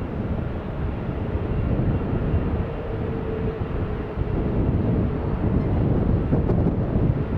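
Boeing 777-300ER jet engines rumbling steadily, mixed with gusty wind buffeting the microphone; a faint steady whine comes in a couple of seconds in and fades.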